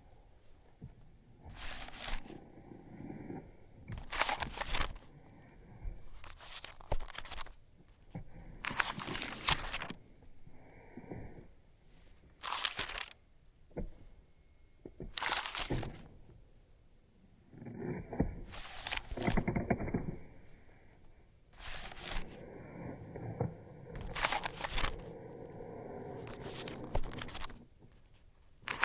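Packaging being torn open and crinkled by hand: a dozen or so separate bursts of tearing and rustling, with quieter handling between them.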